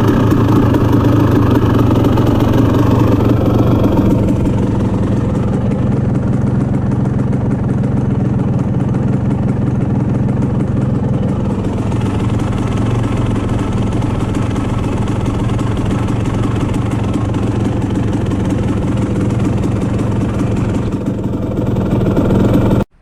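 1989 Honda CR250R's single-cylinder two-stroke engine running cold just after a kick start on new reed valves, held a little higher for the first four seconds, then settling to a steady idle as it warms up. The sound cuts off suddenly just before the end.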